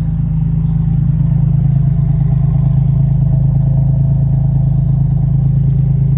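Chrysler Hemi 265 straight-six in a Valiant CL Charger, idling steadily with a low, even hum.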